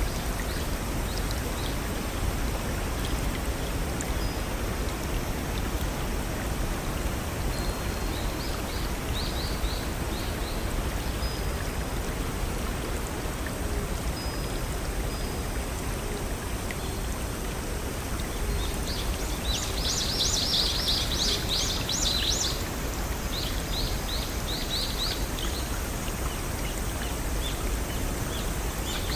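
Steady rushing of a small forest stream and waterfall, with birds chirping now and then and a busy burst of rapid high chirps about two-thirds of the way through.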